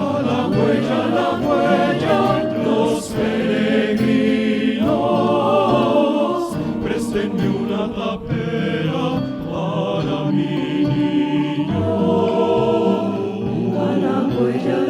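Choir singing in harmony, several voice parts moving together.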